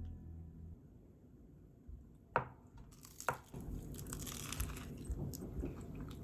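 Crisp baked lavash roll crunching: two sharp cracks a second apart, then a dense, continuing crackle. The tail of background music ends in the first second.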